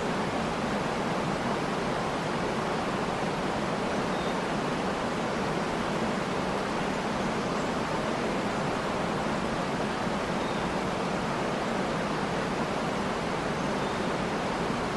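Steady rushing of a waterfall, an even unbroken hiss with no change in level, with a few faint short bird chirps.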